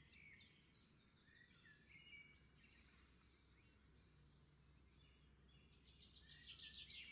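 Near silence with faint bird chirps in the background, and a quicker run of chirps near the end.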